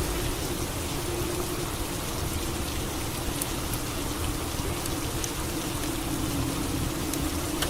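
Steady rain falling, with a low steady hum underneath and a few faint drip-like ticks.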